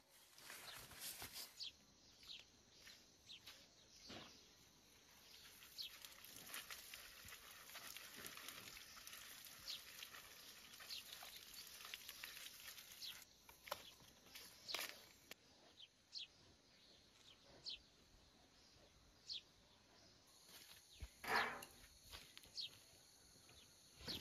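Quiet outdoor ambience with scattered short, high bird chirps, and one brief louder sound about 21 seconds in.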